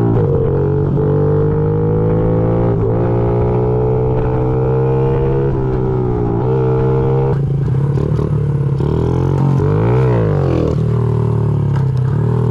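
Honda CRF50's small single-cylinder four-stroke engine running under throttle. Its note climbs slowly and dips briefly several times as the throttle is eased or the gears change. About ten seconds in, a second engine note sweeps down and up across it.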